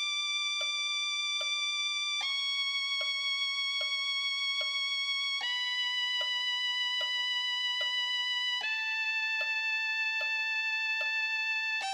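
B minor scale played in long held violin-like notes, descending one step about every three seconds (D, C-sharp, B, A, G), over a steady metronome click of four beats per note.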